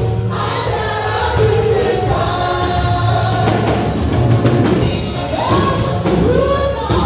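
Gospel music: a group of voices singing together over instrumental backing with a steady bass line.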